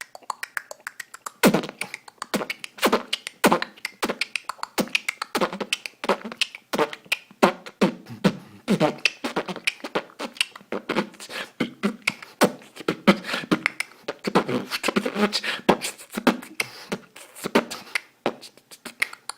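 A man beatboxing: a fast, continuous run of mouth-made kicks, snares and clicks, several a second, with some voiced sounds between them, recorded through an older smartphone's microphone.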